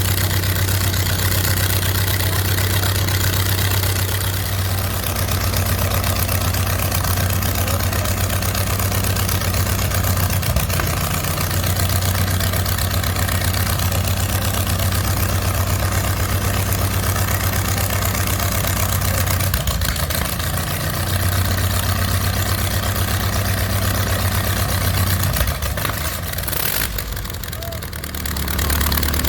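Liberty The Second's engine running steadily at idle. Near the end, the level dips briefly and the note changes.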